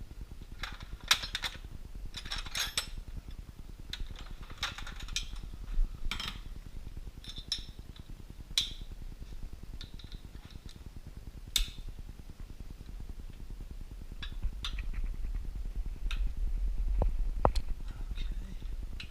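Scattered metallic clicks and clinks of a wrench and sockets working the winch mounting bolts as they are tightened with a torque wrench to 35 foot-pounds, in irregular single taps.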